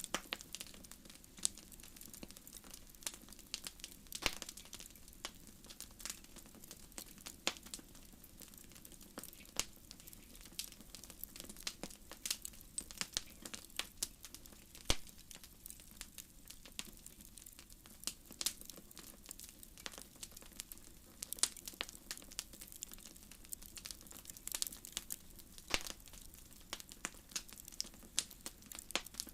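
Wood fire crackling in a fireplace: irregular sharp pops and snaps, several each second, over a soft hiss.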